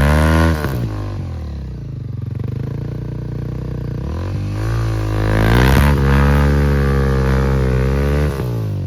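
Enduro dirt bike engine revving: the revs drop soon after the start and run low and steady for a few seconds, rise again about four to five seconds in, then fall away near the end.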